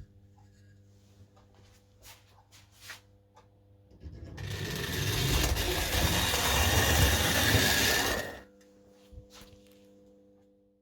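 O scale electric model locomotive (a Louis Roussy 'Montagnarde' steeplecab) running on the track: the motor and wheels make a loud, steady whirring rattle for about four seconds that starts about four seconds in and stops abruptly. Around it are a faint steady hum and a few light clicks.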